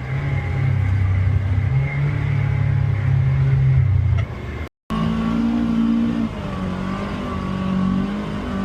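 Polaris Xpedition UTV engine running as the side-by-side drives the trail, a steady low note for the first half. After a sudden break about halfway through, the engine runs at a higher, wavering pitch as the throttle changes.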